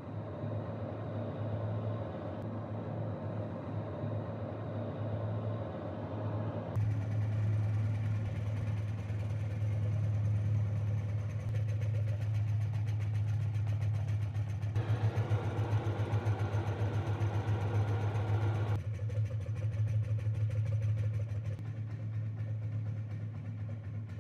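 Restored antique kerosene table fan running under test, its kerosene-heated hot-air engine and blades making a steady low hum. The tone changes abruptly three times: about 7, 15 and 19 seconds in.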